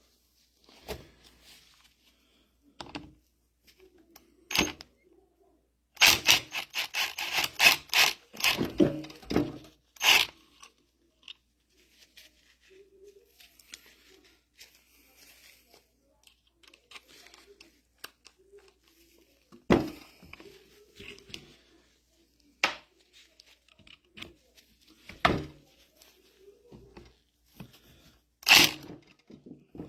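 Metal parts and tools knocking and clattering while an excavator hydraulic valve block is handled and worked on by hand. There is a busy run of quick knocks about six seconds in, lasting some four seconds, and single sharper knocks here and there after it.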